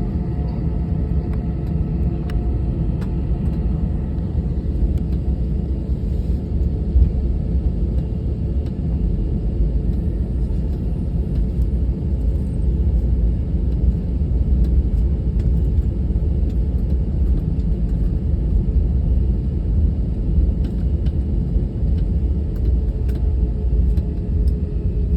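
Airliner's steady, deep rumble with a faint steady whine above it, unchanging throughout.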